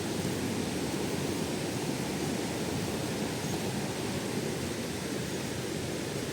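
Waterfall: a steady rush of falling water, strongest in the low and middle range.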